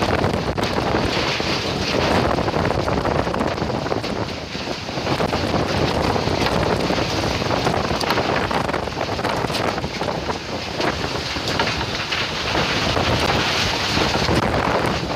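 Strong gusting wind of a summer storm buffeting the microphone: a loud, continuous rush that swells and eases, with scattered sharp crackles.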